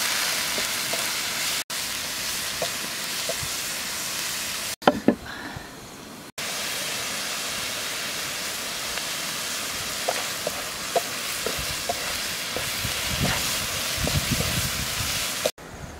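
Snails sizzling as they fry in a hot wok, with a metal spatula scraping and clinking against the pan as they are stirred. Water is poured into the hot wok and the sizzling goes on as a steady hiss. A few sharper knocks fall in a quieter stretch about five seconds in.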